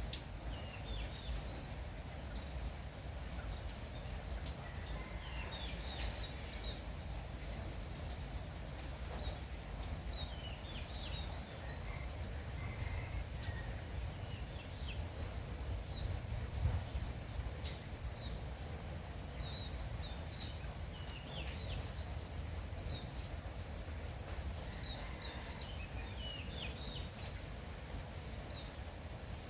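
Birds chirping in short, repeated calls over a steady low rumble of light morning rain, with scattered drip-like ticks.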